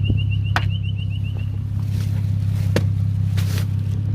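Toyota Supra MK3's engine idling steadily, with a fast, high-pitched electronic warning chime that stops about a second and a half in, and a few sharp clicks.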